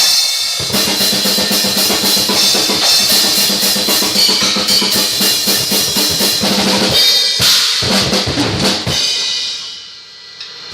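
Pearl Export drum kit played hard, with fast bass drum and snare strokes under steadily ringing cymbals. The playing stops about nine seconds in, and the cymbals ring on and fade.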